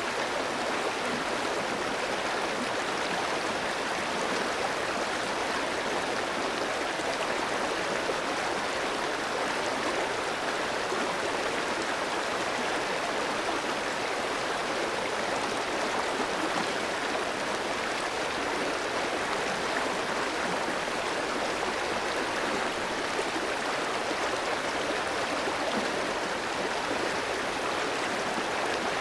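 A clear stream flowing over rocks: a steady, even rush of water.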